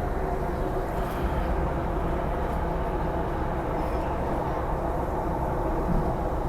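Cabin sound of a Hyundai Rotem electric multiple unit train running at a steady speed: an even rumble of wheels on rail with a faint steady motor hum.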